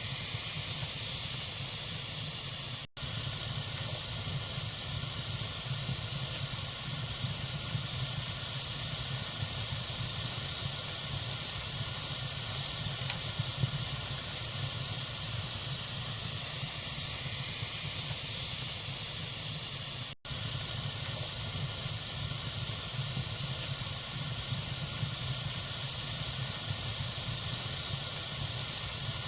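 Wood fire burning in a fireplace: a steady hiss with occasional faint crackles. The sound drops out briefly twice, about three seconds in and about twenty seconds in.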